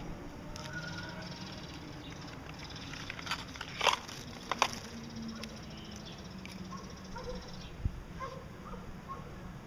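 Small cage birds with a few short, faint chirps, and two sharp noisy bursts about four and four and a half seconds in.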